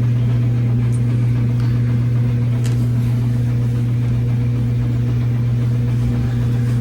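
A loud, steady low machine hum, unchanging throughout, with a couple of faint clicks.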